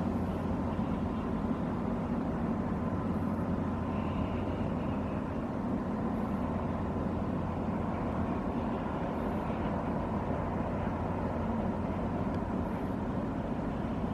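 Inland cargo ship's diesel engine running at a steady, even pace: a constant low rumble with a steady hum.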